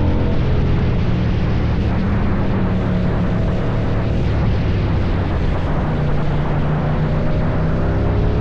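KTM 790 Duke's parallel-twin engine running through an Akrapovic exhaust, holding a fairly steady engine speed with a loud, rough exhaust note. The pitch shifts slightly near the end.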